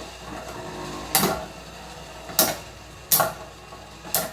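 Metal Fight Beyblade tops spinning in a plastic Beystadium, their metal wheels clashing in four sharp hits at uneven intervals.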